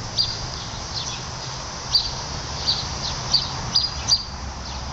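A bird giving short, high chirps about seven times at uneven intervals, over a steady low hum.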